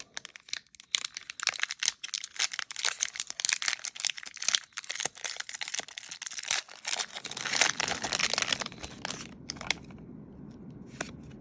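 Foil Pokémon TCG booster pack wrappers crinkling and being torn open: a dense, rapid crackle that dies down near the end.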